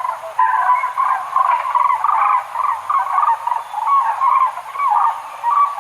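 Cranes calling: a continuous run of many short, overlapping calls at much the same pitch.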